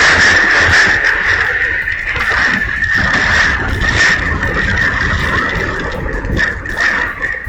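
Typhoon wind blowing hard, with a steady high whistle that swells in several short pulses in the last couple of seconds.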